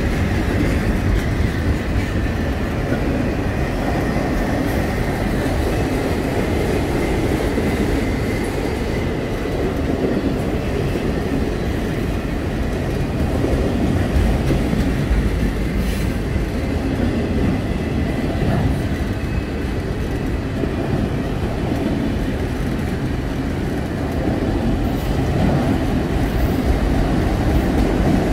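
Freight train cars rolling past close by: a steady rumble of wheels on rail. A faint thin high tone runs through about the first half.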